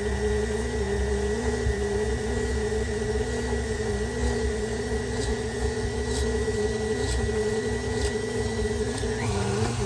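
KitchenAid stand mixer motor driving the Spiralizer Plus attachment through a red potato: a steady whine that stops shortly before the end, with a few light ticks from the cutting in the middle.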